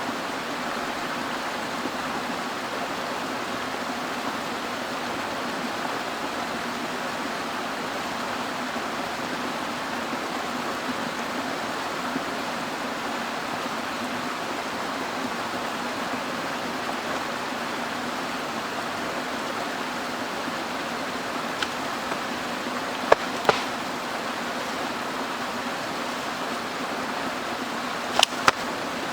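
Mountain stream flowing steadily. Near the end come two pairs of sharp knocks.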